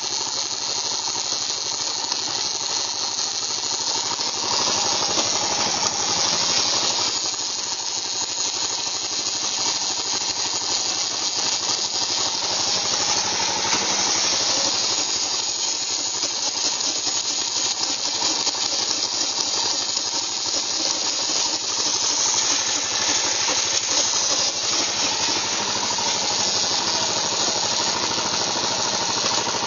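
Yamaha XT 600E's air-cooled single-cylinder engine running steadily with a grinding noise from the gearbox, the kind that the bike makes in 3rd and 5th gear.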